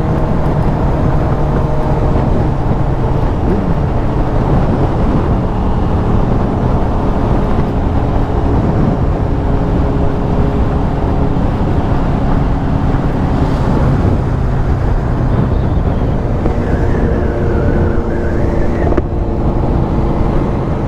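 Stock-exhaust Aprilia RS 660 parallel-twin engine running steadily under way, its note holding a near-constant pitch over heavy low rumble and wind noise.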